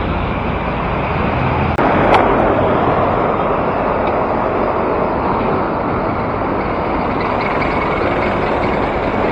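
Steady road traffic noise heard from a moving bicycle in city traffic, with a short sharp click about two seconds in.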